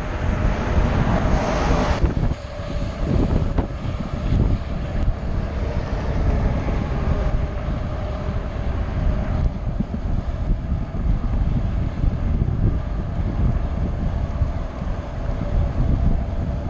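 Wind buffeting the microphone, a steady rumbling rush with no speech.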